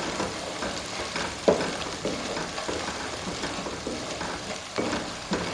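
Ground onion paste sizzling as it fries in oil in a metal kadai, stirred and scraped with a wooden spatula. The spatula knocks sharply against the pan a few times, once about a second and a half in and twice near the end.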